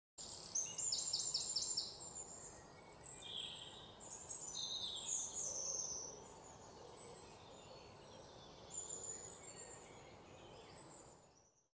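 Birds chirping and singing, opening with a quick run of about six high chirps, then scattered calls over faint background noise; it fades out near the end.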